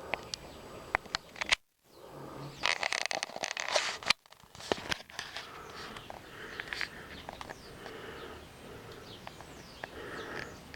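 Birds chirping over steady outdoor background noise, with a few sharp clicks and two brief dropouts.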